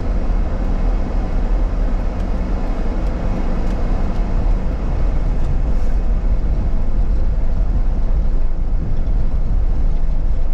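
Steady rumble of a car being driven: road and engine noise heard from inside the cabin.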